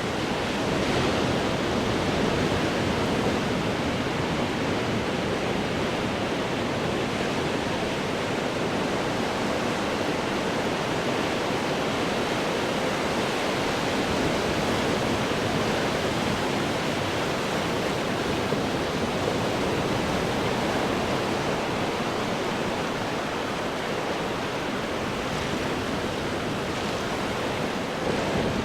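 Ocean waves breaking on rocks: a steady, continuous wash of surf with slight swells, no single crash standing out.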